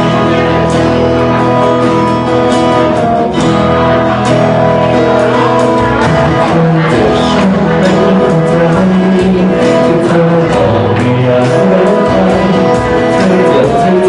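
Live band music led by guitar, with a voice singing over it.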